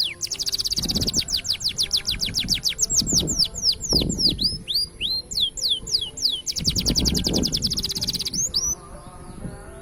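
Green canary singing: fast, high rolling trills of rapidly repeated notes, broken by a run of slower downward-sweeping whistled notes. A second fast trill stops abruptly near the end, leaving a few sparse notes.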